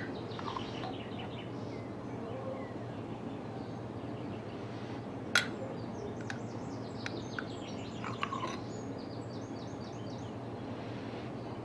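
Small birds chirping and singing in quick series of short notes over a steady low background hum, with one sharp click about five seconds in.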